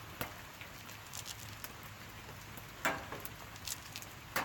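Light rain pattering, with scattered drops ticking irregularly and two louder clicks, one about three seconds in and one at the end.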